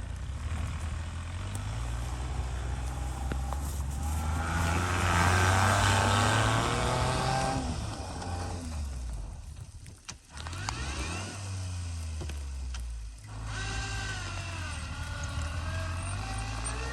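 Lifted Suzuki Carry kei truck's small three-cylinder engine pulling the truck along. Its note rises and falls, is loudest about five seconds in, and drops off briefly twice in the second half, as if between gears.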